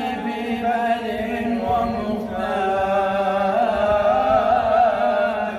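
A man's voice chanting an Arabic devotional ode in the inshad style: long held notes with wavering melismatic ornaments that grow stronger in the second half, over a steady low drone.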